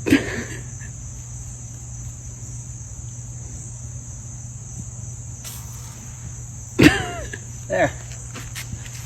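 Crickets trilling steadily in the background, over a low steady hum. About seven seconds in, a person lets out one short loud cry.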